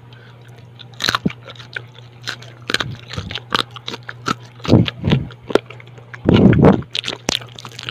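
Close-up crunching and chewing of crispy fried food: a string of short, sharp crackles starting about a second in, with a few louder bites near the end, over a steady low hum.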